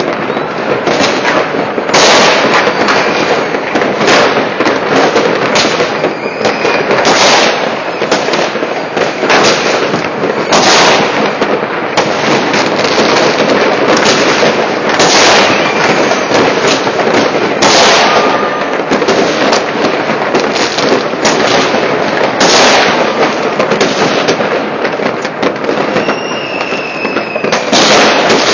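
Loud, continuous barrage of New Year fireworks: many overlapping bangs and firecracker crackle with no pause, with a few thin whistles now and then.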